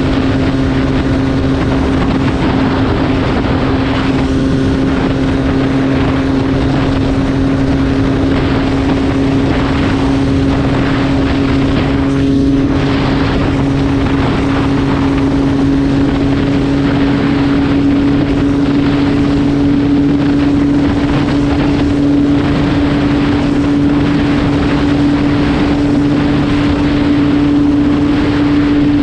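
MV Agusta F3 675's 675cc three-cylinder engine running at a steady cruise while riding, its pitch creeping slightly upward, with a rush of wind noise.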